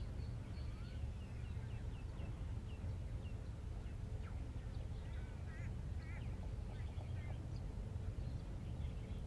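Distant birds calling: a scatter of short chirps and, about five to six seconds in, a couple of warbling phrases, over a steady low background rumble.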